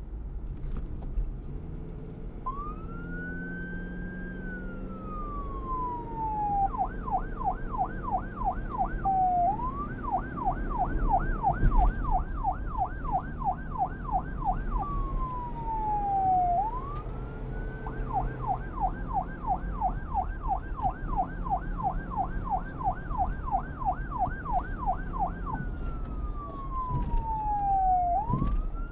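Police car siren switching between a slow wail that rises and falls over a few seconds and a fast yelp of about three to four sweeps a second. The siren sweeps fast three times, separated by wails. A low rumble runs beneath it.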